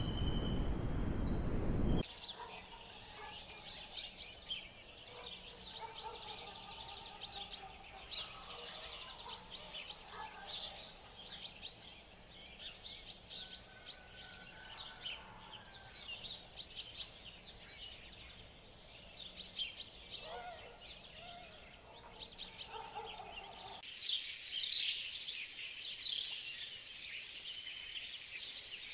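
Forest ambience: a steady high insect drone that cuts off suddenly about two seconds in, then scattered bird calls and chirps, with the insect drone returning suddenly near the end among more chirping.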